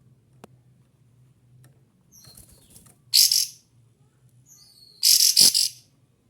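Kapas tembak (a bulbul) singing loudly in short, dense bursts of high chattering notes, one about three seconds in and a longer one near the end, with fainter calls and short whistles between them.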